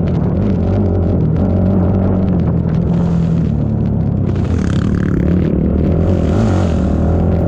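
ATV engine running under racing throttle, its pitch wavering up and down, with bursts of hiss about three seconds in and again in the second half.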